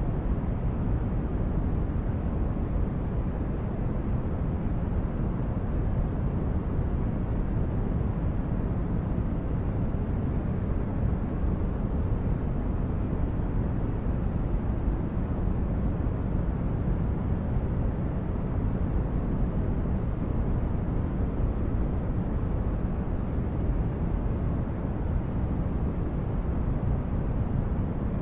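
Steady, deep rumbling noise of a designed starship ambience, brown-noise-like engine drone. It holds an even level throughout, strongest in the bass, with no distinct events or tones.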